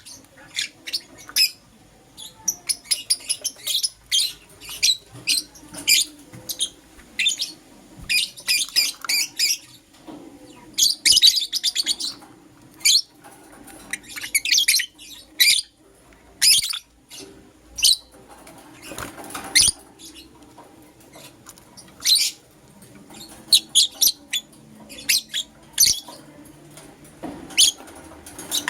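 Lovebirds chirping: rapid runs of short, high-pitched chirps in clusters, with brief pauses between them.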